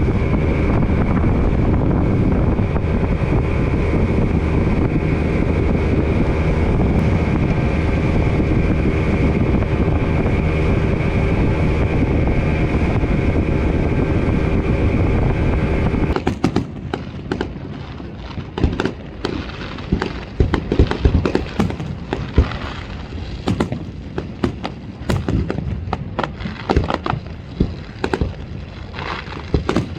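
A boat's engine running steadily. About sixteen seconds in it cuts off, and a run of sharp, irregular cracks and pops follows.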